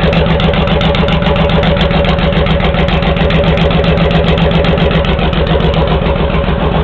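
Honda VTX1800's V-twin idling steadily through 3-inch Hard Krome straight pipes, with the pair valve port plugged off: an even, pulsing idle that the owner finds better with the pair valve disabled.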